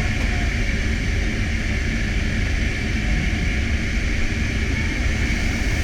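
Military transport aircraft's engines running, a steady loud rumble with a high whine over it.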